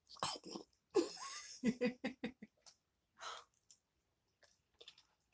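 A person taking a bite of food and eating close to the microphone: a few short mouth clicks and smacks, a brief voiced sound about a second in, and a breath about three seconds in.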